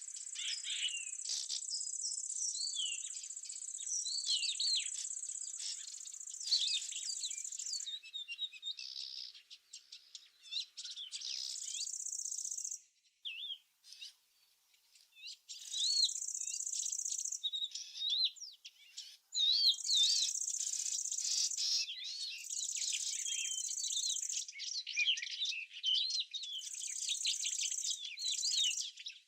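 Outdoor insects trilling in a steady high buzz that stops and restarts every few seconds, with small birds chirping and twittering throughout. Both drop away briefly about halfway through.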